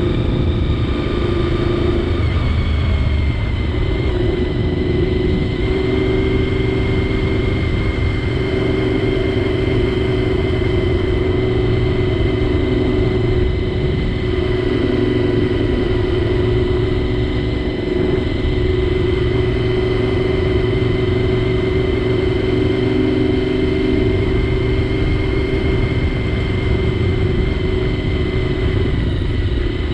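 Honda VFR750's V4 engine running at a steady cruise, heard through a helmet-mounted microphone with a heavy low rush of wind. The engine note shifts once about two to three seconds in, then holds steady.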